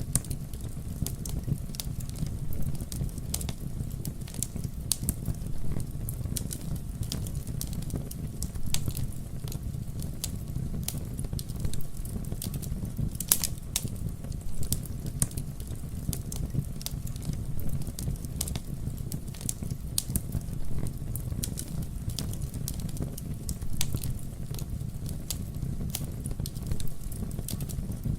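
Campfire burning: a steady low rumble of the flames with frequent sharp, irregular crackles and pops from the wood.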